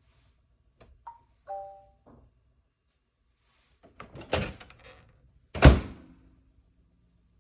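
KitchenAid microwave being worked: a click and two short electronic beeps, then a clatter of knocks and a heavy thunk of the door swinging shut, the loudest sound.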